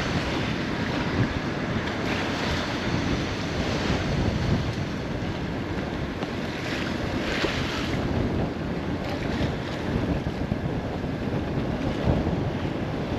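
Wind buffeting the microphone over the steady rush of waves and water along a sailboat's hull under way in rough seas, with a few louder surges of wash.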